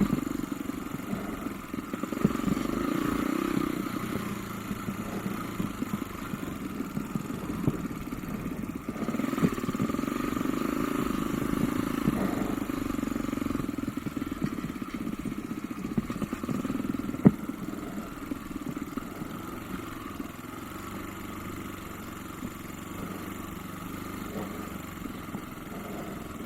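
Off-road motorcycle engine running while the bike is ridden, swelling and easing with the throttle, with a few sharp knocks along the way.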